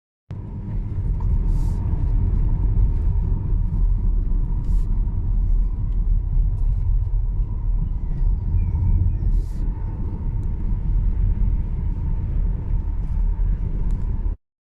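Strong wind buffeting the microphone: a loud, continuous low rumble that swells and dips with the gusts, with a few short hissy rushes on top. It cuts off abruptly near the end.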